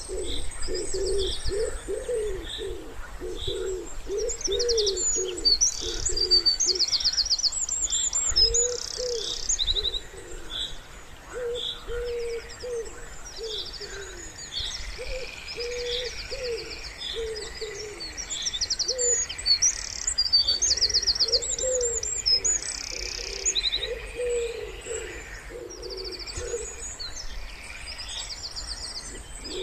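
Wood pigeons cooing in repeated bouts of low coos, over songbirds chirping and trilling high and fast.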